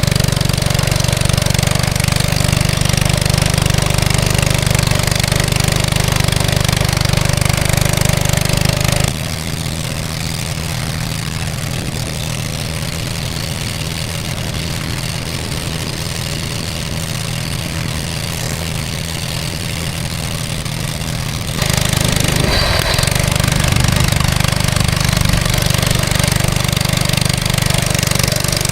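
Mini bike's Briggs & Stratton single-cylinder engine running, fitted with the wrong carburettor. It is loud and steady, drops suddenly to a quieter, noisier sound about nine seconds in, and comes back loud about twenty-one seconds in.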